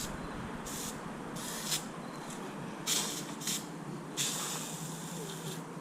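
Liquid sprayed onto a car engine in a series of short hissing squirts, about seven in all, with a longer spray about four seconds in.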